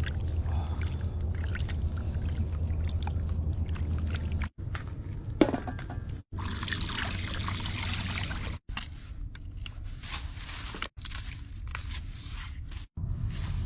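Water pouring and splashing as chopped chicken pieces are rinsed, with a low steady hum under the first few seconds and a sharp knock midway; the sound breaks off abruptly several times.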